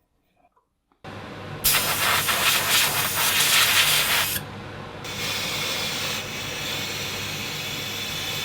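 A machine starts with a steady hum about a second in. Over it, compressed air blasts in two long hissing bursts, the first of about three seconds and louder, the second running past the end.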